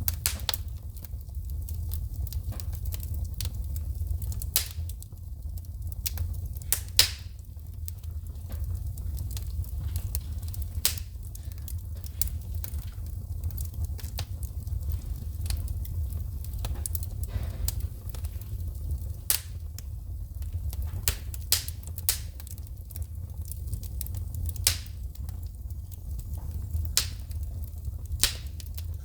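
Wood fire burning in a fireplace, crackling with frequent irregular sharp pops and snaps of shooting sparks over a steady low rumble. The loudest pop comes about seven seconds in.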